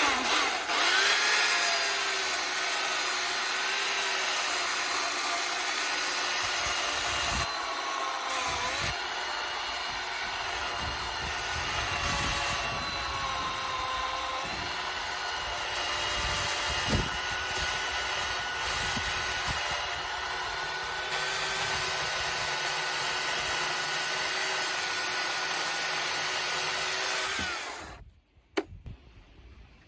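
Chainsaw running while cutting through an oak log, its pitch sagging under load now and then. It cuts off suddenly near the end.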